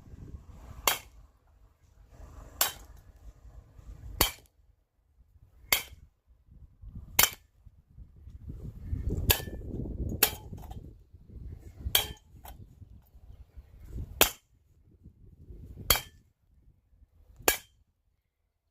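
A bat striking ceiling fan parts in a series of hard, sharp blows, about one every one and a half seconds.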